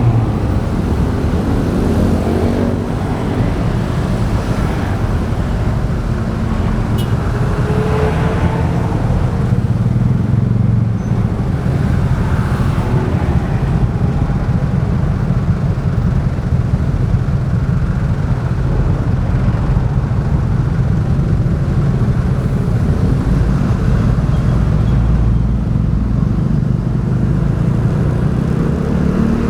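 A motorbike being ridden through traffic: its engine runs under a steady, loud low rumble of road and wind noise, with other vehicles around it.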